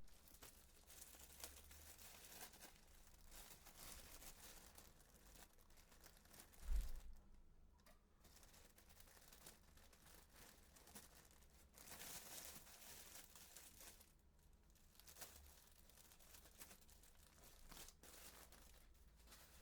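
Faint rustling and crinkling of something being handled, in several stretches, with a soft thump about seven seconds in.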